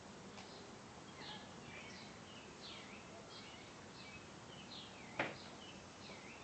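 Small birds chirping over faint background hiss: short sweeping chirps repeat several times a second or so, with one sharp click a little after five seconds in.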